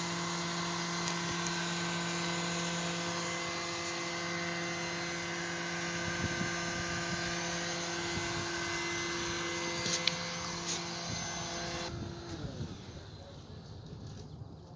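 Steady mechanical hum of a motor or engine at a constant pitch, with a hiss above it, that drops away suddenly about twelve seconds in.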